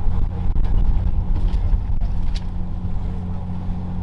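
Charter fishing boat's engine running steadily, a low, even drone, with a few light knocks on deck.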